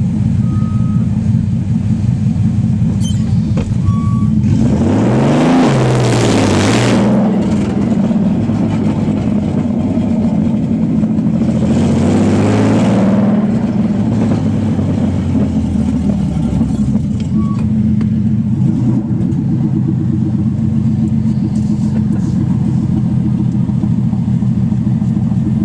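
Nissan 300ZX (Z32) non-turbo 3.0 L V6 running with no exhaust fitted, loud and raw. It revs hard under acceleration twice, about five seconds in and again about eleven seconds in, the pitch climbing and then dropping, and settles back to a steady lower drone in between and after.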